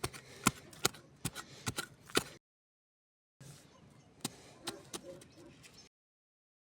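Campfire crackling with sharp, irregular pops, loudest and most frequent in the first two seconds, in two stretches broken by about a second of dead silence.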